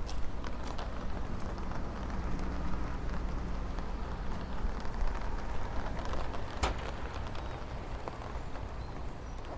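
City street ambience while walking: footsteps on the pavement over a steady low rumble of traffic and wind, with a single sharp click about two-thirds of the way in.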